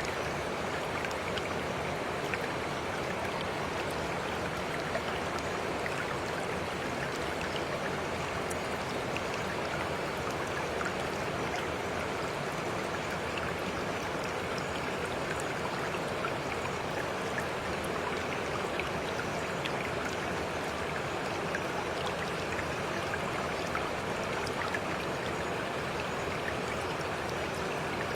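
Steady rush of flowing stream water, with scattered faint ticks throughout.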